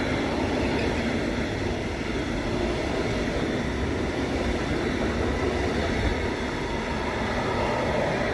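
Freight train's wagons rolling past on the track with a steady, loud rail rumble.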